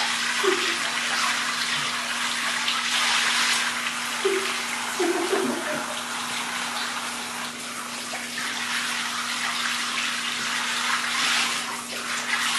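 Water spraying or pouring down steadily in a dense rushing hiss, like a heavy downpour, with a faint steady hum underneath.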